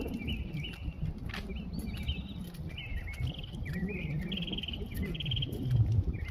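A small bird singing a run of short buzzy trills, each phrase a rapid pulsing note that shifts up or down in pitch from one phrase to the next. Underneath runs an irregular low rumble of wind and handling noise, swelling near the end.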